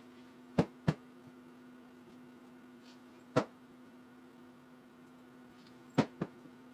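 Sharp knocks over a faint, steady low hum: two close together about half a second in, one a little past three seconds, and two more close together near the end.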